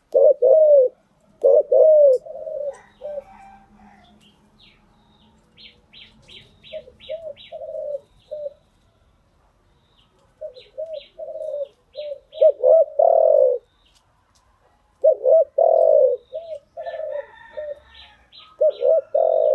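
Spotted dove cooing in repeated phrases of several notes, some bouts loud and others fainter, with faint short high chirps in the background.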